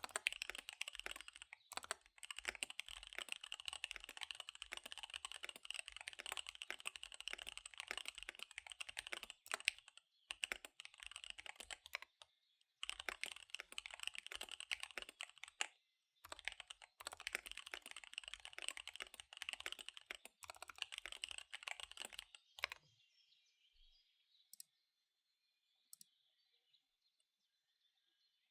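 Fast typing on a KBD75 V3 mechanical keyboard with SP-Star Dark Magic Girl tactile switches and DSA keycaps: rapid keystrokes in long runs with brief pauses. The typing stops for the last five seconds or so, apart from a couple of single key presses.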